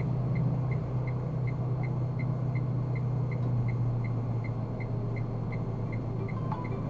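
Steady low drone of a car's engine and tyres heard inside the cabin, with the faint even ticking of the turn signal, about three ticks a second, for the announced right turn.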